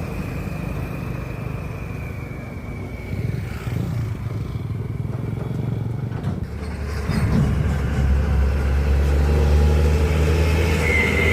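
Heavy diesel engine running, getting louder and steadier about seven seconds in as it comes under more load, with a thin high whine that fades out in the first few seconds.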